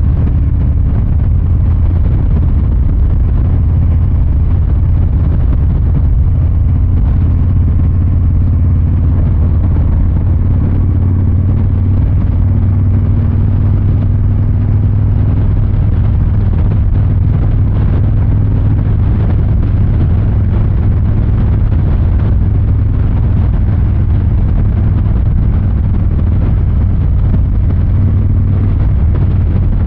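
2023 Harley-Davidson Fat Boy 114's V-twin engine and exhaust running steadily, low and even with little change in pitch.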